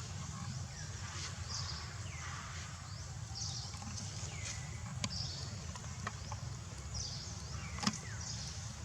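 Short high-pitched animal calls, about one a second, some sliding down in pitch, over a steady low rumble, with a sharp click near the end.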